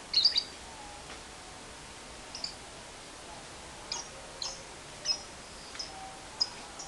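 Lovebird giving short, sharp, high chirps: a loud cluster right at the start, then single chirps every half-second to a second.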